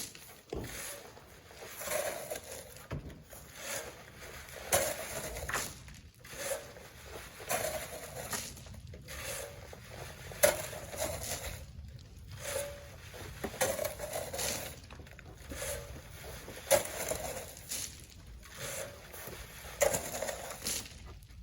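Sand being shovelled by hand into a truck: repeated scrapes of shovel blades in sand and the thud and patter of each load landing, about one a second.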